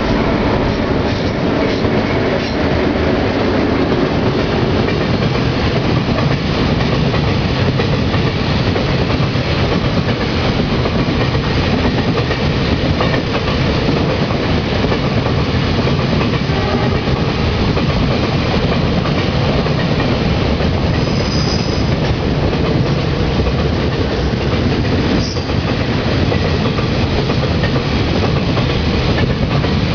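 Freight train wagons rolling past steadily, their wheels clattering over the rail joints. A brief high wheel squeal comes about two-thirds of the way through.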